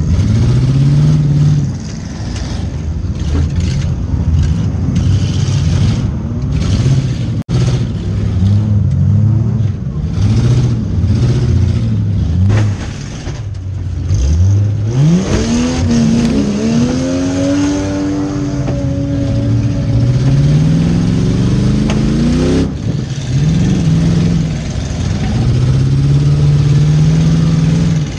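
Demolition derby car's engine revving up and down again and again, with one long climb to high revs held for several seconds in the middle.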